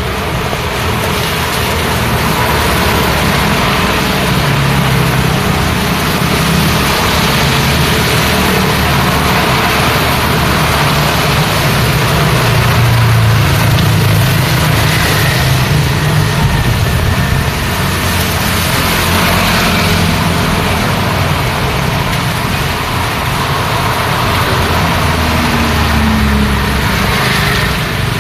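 Road traffic in the rain: engines of cars and heavier vehicles running and passing, swelling and fading several times, over a steady hiss of rain and wet tyres.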